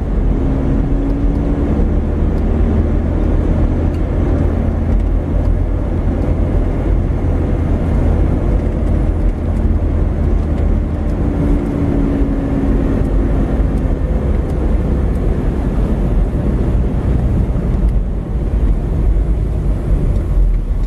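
Car driving slowly, heard from inside the cabin: steady engine and road rumble, with a faint hum that comes and goes twice.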